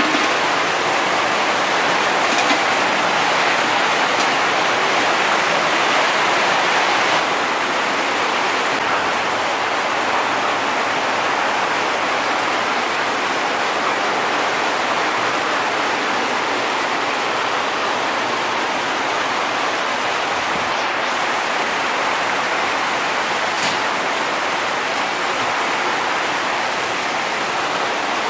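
Heavy tropical rain pouring down in a steady hiss, driven by strong wind, a little louder in the first several seconds.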